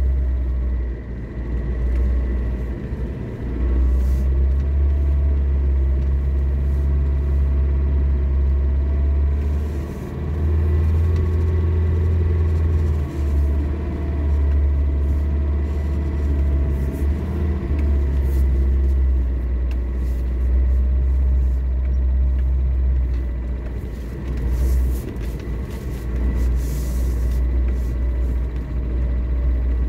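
Lada Niva's engine and drivetrain running under load while driving through snow: a steady low rumble with a droning tone that wavers slightly in pitch, easing off briefly a few times.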